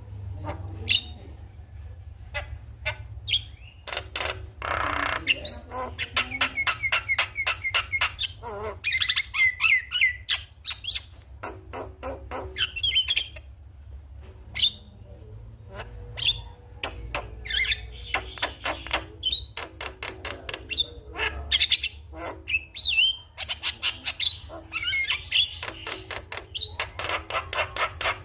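Javan myna (jalak kebo) chattering and calling: rapid runs of sharp clicking notes mixed with squawks and short rising whistles, over a steady low hum.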